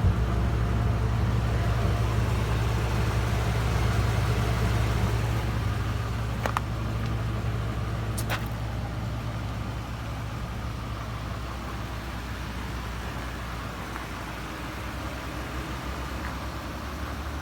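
Ford F-450's gasoline 6.8 L V10 idling steadily, very quiet and healthy-sounding, slowly growing fainter. Two short clicks come partway through, about two seconds apart.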